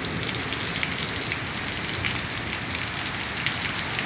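Heavy storm rain pouring steadily, with the sharp patter of drops striking surfaces close by.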